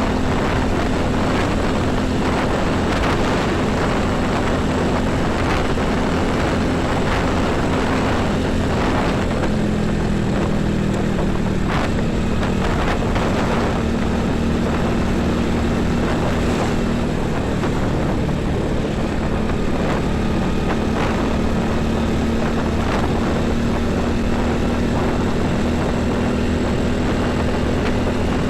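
Heavy diesel engines of highway traffic, trucks and buses, running in a steady, unbroken drone.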